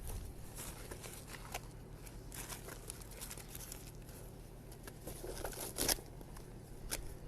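Rummaging and crinkling as a medical kit is searched for scissors, with scattered clicks and a sharp knock about six seconds in, over a steady low hum.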